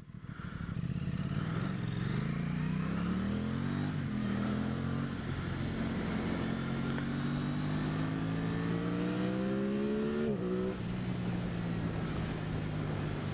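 2023 Aprilia Tuono 660's parallel-twin engine accelerating, its pitch rising through the gears with upshifts about four and ten seconds in, then running steadily, over road and wind noise.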